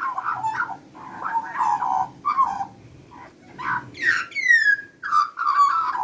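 Australian magpie warbling: a running string of short, wavering phrases, with one clear whistle that slides down in pitch about four seconds in.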